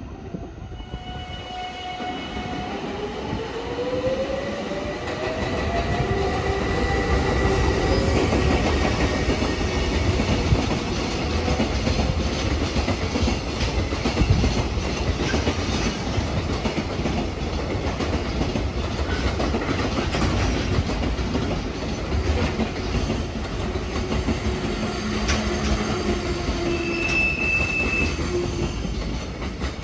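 JR container freight train passing at speed. A whine rises in pitch as the train comes in during the first few seconds, then the wagon wheels keep up a long, steady rumble and clatter over the rail joints. A short, high wheel squeal comes near the end.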